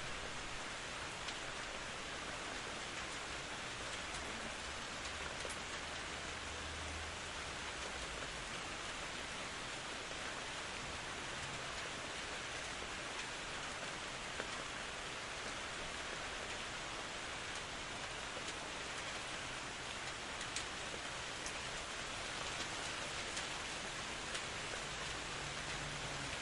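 Steady rain falling, an even hiss with scattered single drops ticking, and a faint low rumble for a few seconds about five seconds in.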